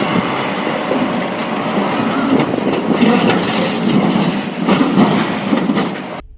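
Loud, dense vehicle noise, a continuous rumble and rattle, that cuts off suddenly near the end.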